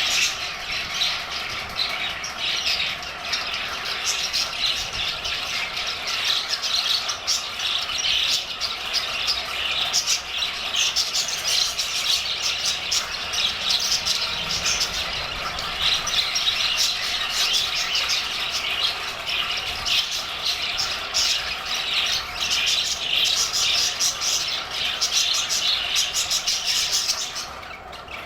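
A flock of budgerigars chattering continuously in a dense, overlapping twitter, dipping briefly just before the end.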